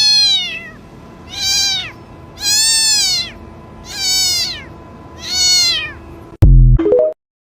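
A pet animal giving five meow-like calls about 1.4 s apart, each rising then falling in pitch. A sudden loud low burst and a short rising sound follow near the end, then the sound cuts off.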